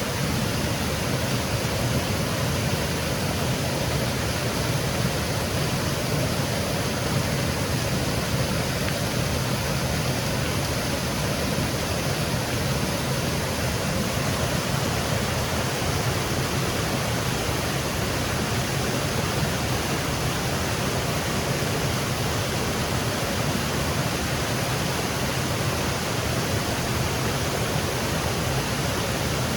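Small woodland waterfall cascading over rocks, a steady, even rush of water with no breaks.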